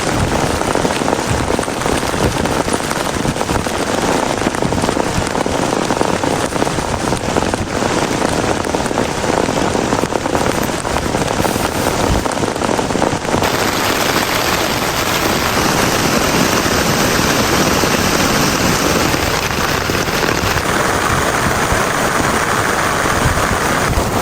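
Heavy rain falling, a loud dense steady hiss of drops. Its sound changes abruptly about halfway through and again near the end.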